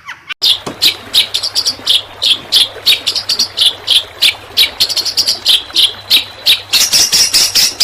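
Long-tailed shrike (cendet) singing rapid, sharp 'tembakan' notes, used as training song for caged shrikes. The notes come in a steady run of about three a second after a brief break at the start, and grow quicker and denser near the end.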